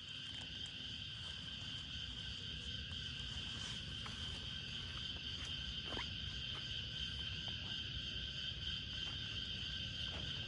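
Forest chorus of frogs and insects calling, a steady high trill over a low rumble, with a few short chirps and one quick rising call about six seconds in.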